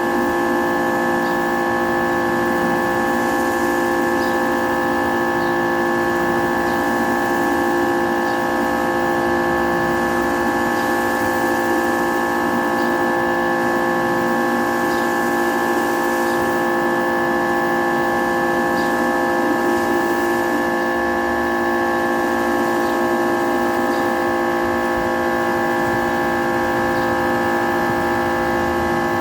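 Kärcher K3.30 electric pressure washer running steadily, its motor and pump giving a constant whine of several tones over a hiss.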